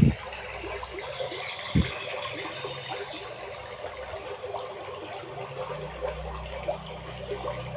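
Water trickling steadily, with one low thud about two seconds in and a low hum joining in the last two seconds.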